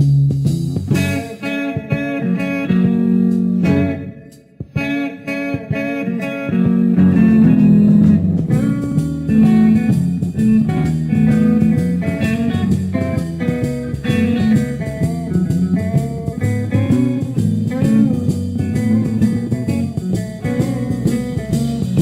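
Instrumental blues-rock band passage led by guitar over bass. The music drops away briefly about four seconds in, then comes back fuller a couple of seconds later.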